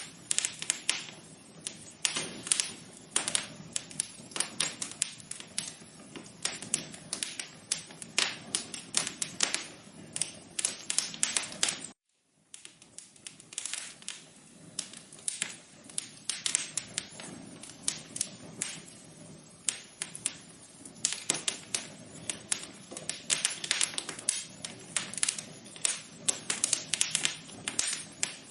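Wood fire in a fireplace crackling, with dense, irregular pops and snaps. The sound cuts out completely for about half a second around the middle.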